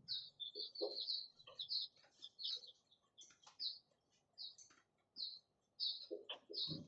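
Small birds chirping over and over in short, high notes, with a few faint scratches of a marker writing on a whiteboard.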